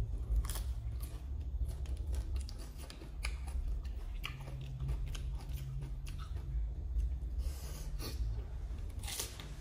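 Close-miked chewing and crunching of a mouthful of raw lettuce leaf with shredded green papaya salad: many short, crisp crackles at an uneven pace, thickest near the end.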